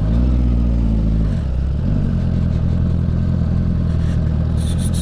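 Honda CB650 motorcycle's inline-four engine running under way. It climbs in pitch over the first second, drops off sharply about a second and a half in, then picks up slightly.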